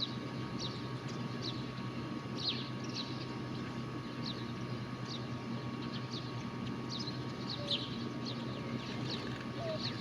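A small bird repeating short, high, falling chirps about once or twice a second, over a steady low background hum.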